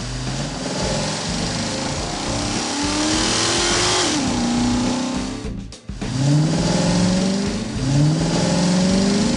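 Car engine sound effects revving up again and again, each rev rising in pitch, over a steady hiss, with a brief break a little before six seconds in.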